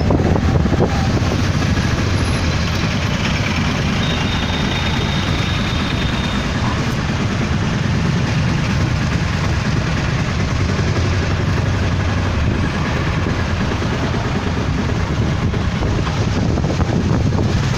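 Passenger train running at speed, a loud steady rumble of wheels and carriage.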